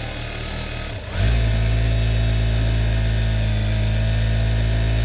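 Sewing machine running steadily under power, stepping up to a louder, smoother run about a second in.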